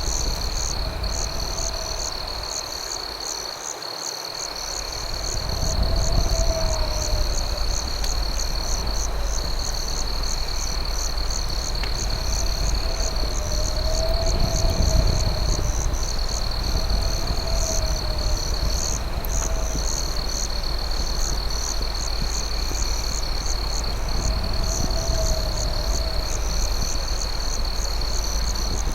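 Night chorus of crickets: a steady high trill with rapid pulsing chirps above it. A lower rising-and-falling call comes every few seconds, over a steady low rumble.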